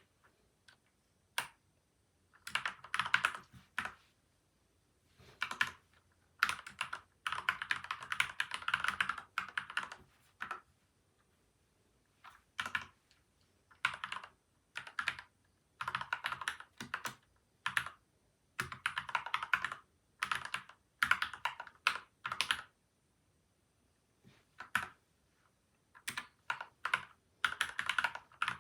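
Typing on a PCL87 mechanical keyboard with lubed Gateron Milky White and Outemu Yellow switches and tape-and-foam mods, in quick runs of keystrokes with short pauses between them.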